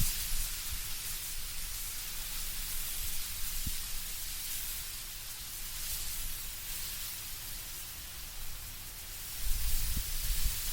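Wind blowing through autumn trees, leaves rustling in a steady hiss. A low gusting rumble swells near the end.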